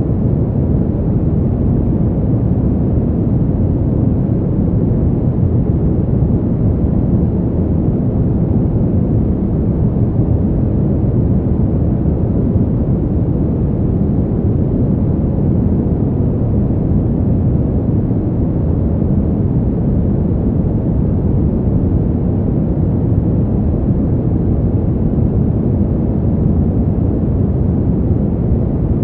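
Steady, deep rush of winter wind noise, even in level with no gusts or other sounds standing out.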